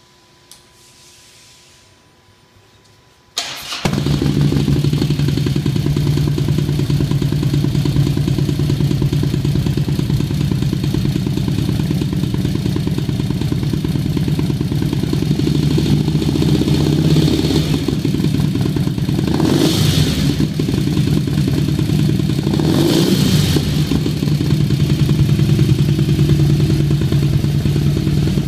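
Harley-Davidson Dyna's V-twin starting about three seconds in and idling through a prototype Loose Cannon exhaust with test baffles. It is revved briefly twice in the second half.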